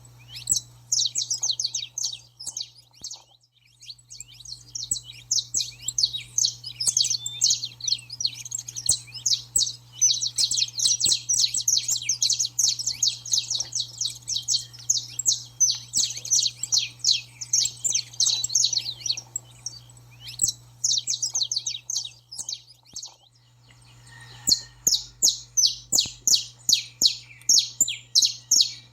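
Saffron finch in an agitated 'baderna' chatter: dense runs of rapid, high, dry chirps. They thin out about two-thirds of the way through, then return as a regular series of about three sharp chirps a second.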